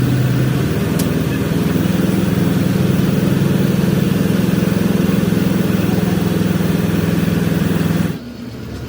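A Hino truck's diesel engine running at a steady speed after a short rise in revs, then cutting off abruptly near the end.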